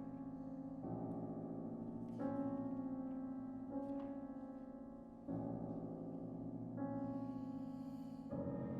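A violin, cello and piano trio playing slow, sustained chords, a new chord sounding about every one and a half seconds and fading a little before the next.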